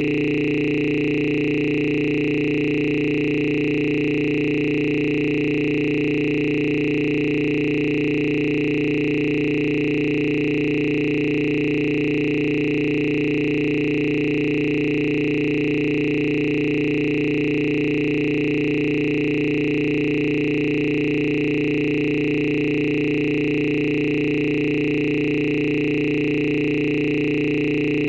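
A steady, unchanging electronic tone made of several pitches sounding together, low, middle and high, held at a constant level with no breaks.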